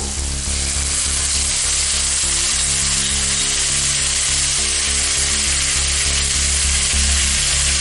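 Shredded vegetables sizzling steadily in a hot oiled kadai over a high flame, as a spoonful of vinegar goes into the pan.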